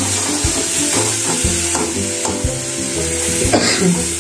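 Onion-and-tomato tadka frying in hot oil in a pan, sizzling steadily as it is stirred. Background music with a steady beat plays under it.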